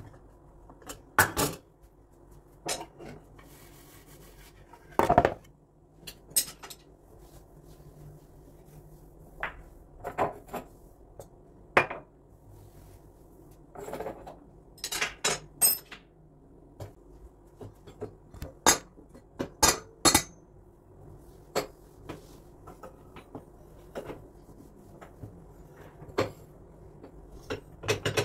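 Dishes and cutlery being handled: irregular sharp clinks and clatters about every second or so, over a faint steady hum.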